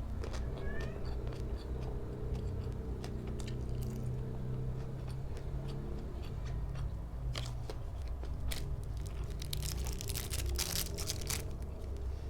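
Close-up chewing and biting of food, with scattered small clicks and a dense run of crunchy bites about nine to eleven seconds in, over a steady low hum.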